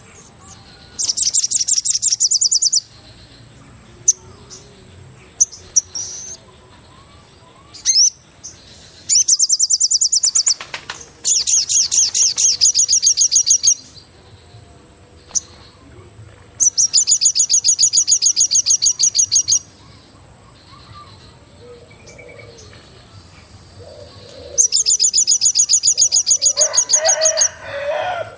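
Forest bird giving rapid, high-pitched trills in bursts of two to three seconds, repeated five times, over a faint steady high whine. A shorter, lower call comes near the end.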